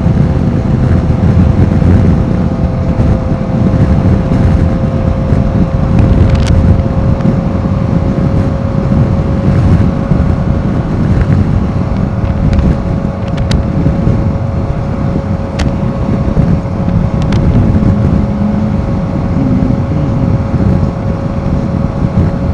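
Royal Enfield Himalayan 450's single-cylinder engine running at a steady cruise while riding, its note holding one pitch, under heavy wind rumble on the microphone.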